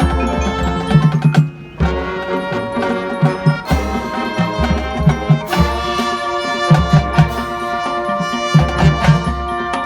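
High school marching band playing: sustained brass chords over the drumline's repeated drum hits, with a short drop in volume about one and a half seconds in.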